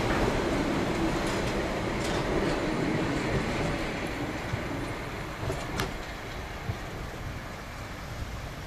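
Harz mountain railway steam train's coaches rolling past with a steady rumble, with a couple of sharp clicks from the wheels and couplings. The sound grows gradually quieter as the train draws away.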